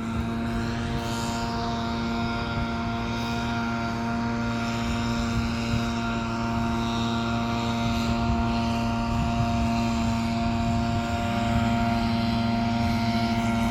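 Small propeller engine running at a steady speed: an even, pitched drone with a slight change in pitch and a little louder about 11 seconds in.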